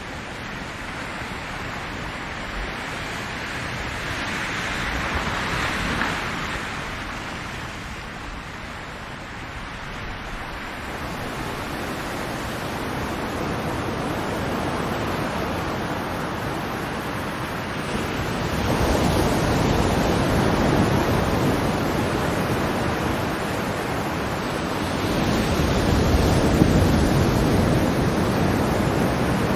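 Ocean surf, waves washing in and drawing back in slow swells. One wave builds and breaks in the first quarter, and two fuller, deeper surges come about two-thirds through and near the end.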